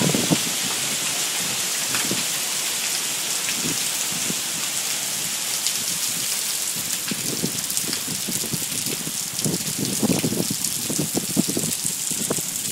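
Hail and rain falling together: a dense, steady patter peppered with sharp ticks of hailstones striking, with clusters of duller low thumps in the second half.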